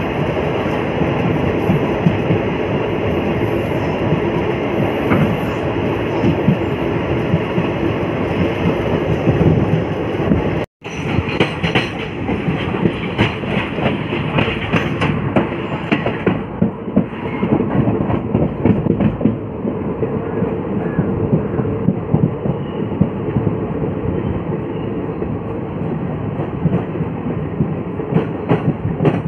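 Passenger train running at speed, heard from an open coach door: a steady rumble of wheels on the rails mixed with rushing air, and a rapid clickety-clack of wheels over rail joints. The sound cuts out for an instant about eleven seconds in. The rail clicks come thickest just after that.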